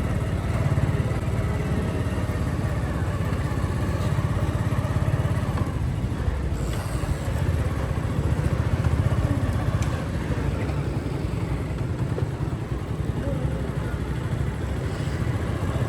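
Motorcycle engine running steadily while being ridden, a continuous low rumble with road and traffic noise behind it.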